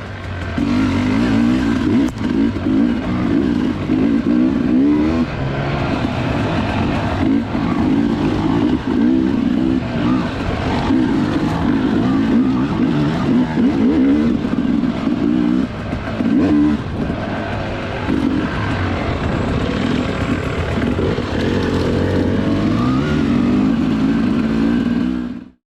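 Dirt bike engine running and revving up and down as it rides, its pitch rising and falling throughout; it cuts off suddenly near the end.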